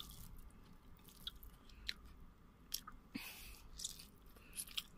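Faint close-up chewing of a mouthful of chicken biryani, with a few short, soft mouth clicks.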